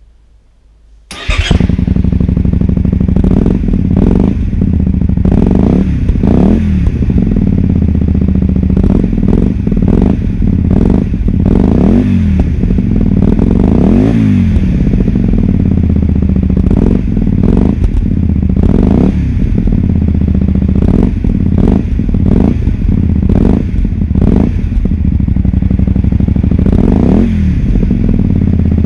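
Honda Varadero XL 125 V-twin motorcycle engine running through an aftermarket Arrow Street Thunder exhaust. It comes in suddenly about a second in and is then revved in repeated throttle blips, its pitch rising and falling every second or two.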